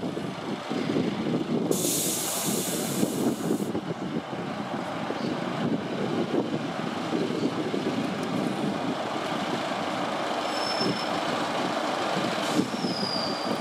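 Diesel trains running, with a steady low engine rumble, while a high-speed train eases in. About two seconds in, a loud hiss of air from the brakes lasts a couple of seconds. Near the end come a few faint, short, high squeals.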